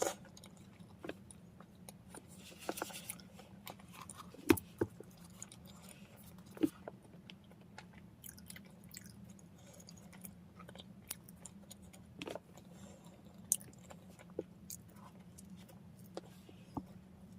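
Close-up chewing of bread: soft mouth clicks and smacks at irregular intervals, over a faint steady low hum.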